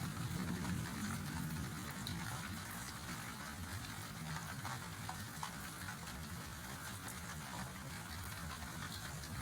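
Steady rain falling, a continuous hiss with scattered drop ticks. A low thunder rumble dies away in the first second or two.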